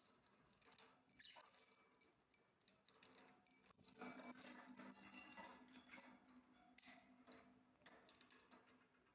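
Faint clicking and clinking of a parrot playing with a toy, busiest from about four seconds in.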